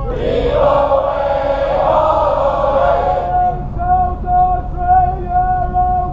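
A group of voices singing. A loud mass of voices rises together for about the first three seconds, then the singers hold a long, steady note.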